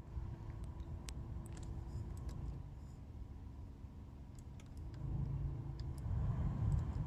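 BMW E9x cabin blower fan running with a steady hum and scattered irregular clicks: the strange blower-motor noise that a spray of WD-40 on the motor cures. The hum drops slightly in pitch about two and a half seconds in, and the running grows louder near the end.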